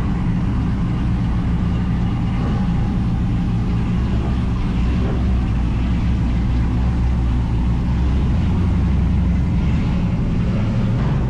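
Truck engine running at a steady speed, a continuous low drone that hardly changes.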